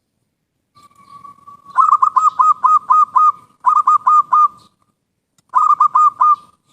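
Zebra dove (perkutut) cooing: a soft drawn-out coo, then three runs of quick, rhythmic staccato notes with short pauses between them.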